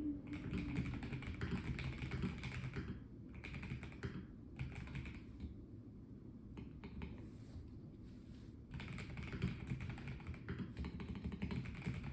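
Typing on a Melgeek Mojo84 plastic-case mechanical keyboard: fast runs of key clacks in bursts, broken by short pauses. A sparser patch of single keystrokes comes around the middle before a longer run near the end.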